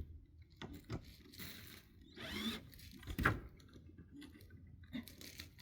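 A cordless drill-driver runs in short bursts, working a screw into pallet wood, between knocks from the boards being handled; the loudest knock comes about three seconds in.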